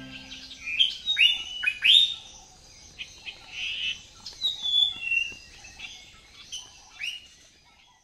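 Wild birds calling: a quick string of loud, sharp calls that sweep downward in pitch, thickest in the first two seconds, then scattered shorter chirps that thin out near the end.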